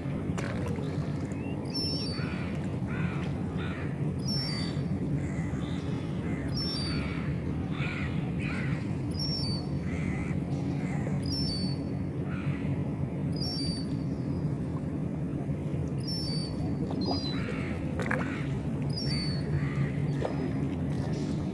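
Gulls calling: short high calls repeat every second or two, mixed with longer calls, over a steady low hum.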